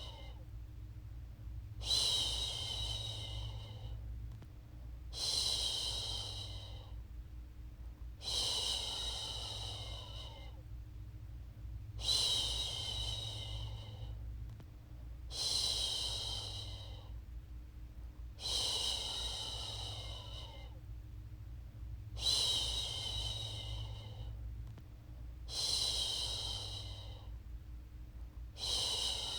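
A woman's voice shushing a baby to sleep, a long "shhh" about every three and a half seconds, each lasting about a second and a half, over a steady low rumble.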